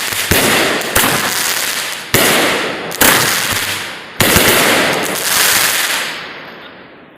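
Consumer fireworks going off: five sharp bangs about a second apart, each followed by a long hiss that dies down, the volley fading out near the end.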